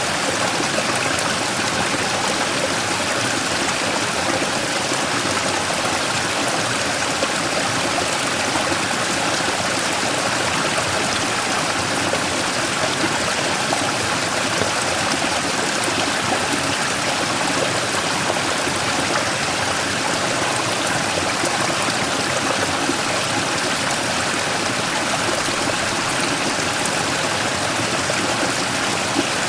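Mountain stream rushing and splashing over a large rock in a small waterfall, a steady, unchanging flow of water.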